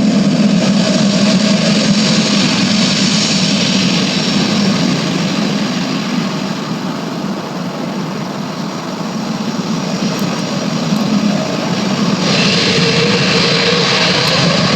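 Jet aircraft engines running with a steady, loud rumble that eases a little midway. About twelve seconds in, a brighter hiss joins it along with a rising whine.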